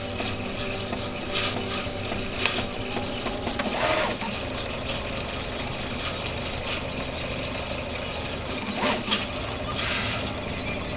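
RepRap 3D printer's stepper motors running through a print, a steady mechanical hum of held tones. Scattered clicks and a couple of short pitch sweeps come as the moves change.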